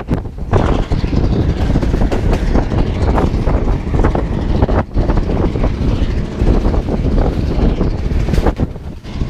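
Passenger train running at speed, its wheels clattering and knocking over the rails, with wind buffeting the microphone.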